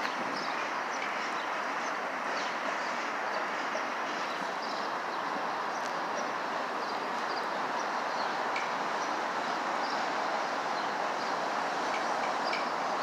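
Freight train rolling slowly out of sight: a steady rushing noise that grows a little louder toward the end, with small birds chirping over it.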